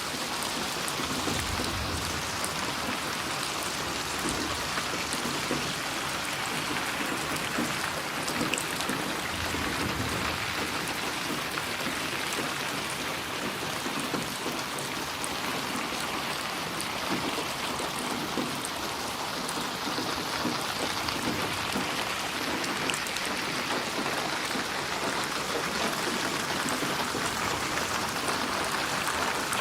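Steady heavy rain falling and pattering on surfaces, a dense even hiss of drops. Two brief low rumbles rise under it, about a second in and again about ten seconds in.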